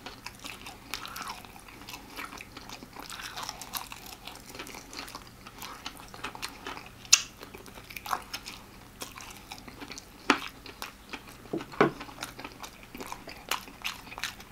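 Close-up chewing and crunching of crispy fried chicken: steady small crackles of the breading and wet mouth sounds, with a few sharper, louder crunches in the second half.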